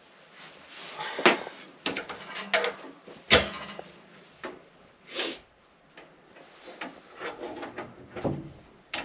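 Plumbing parts being handled and fitted: a string of irregular knocks and clicks with rubbing in between, the loudest knock about three seconds in.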